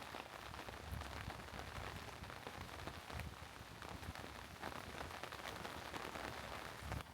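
Steady rain falling and pattering on surfaces, with many separate drops heard through it and a low rumble underneath.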